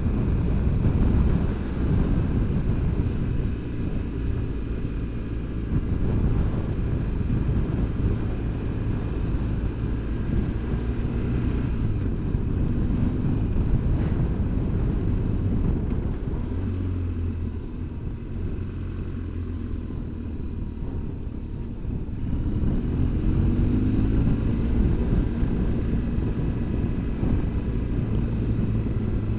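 BMW R1200GS Adventure's flat-twin engine running under way. The engine note shifts with the throttle, easing off a little in the middle and picking up again after about 23 seconds.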